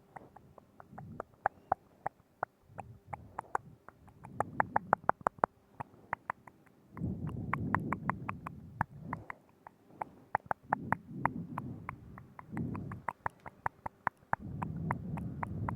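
Wet mouth sounds very close to the microphone: rapid tongue and lip clicks in clusters, with stretches of low rumbling sound underneath every few seconds.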